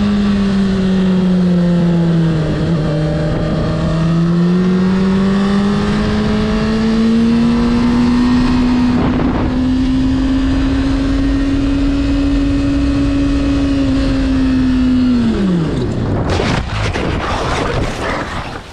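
A car engine held at high revs for about fifteen seconds, its pitch sagging and then slowly climbing, before the revs fall away sharply. A few seconds of rough, noisy crackle follow near the end.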